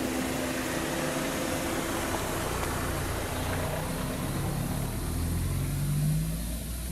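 Motor vehicle engine running over steady road or traffic noise. Its note rises and grows louder about five seconds in, then fades away.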